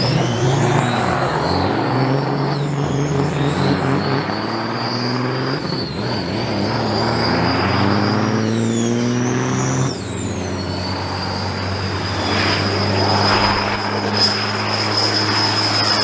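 Diesel semi truck engine under hard acceleration, with a high turbo whistle. Its pitch climbs and drops back at each upshift, about every two to four seconds, then holds steady from about ten seconds in. A short sharp click comes near the end.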